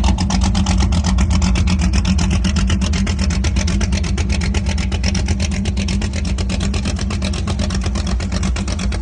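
A boat's engine running steadily with a fast, even throb.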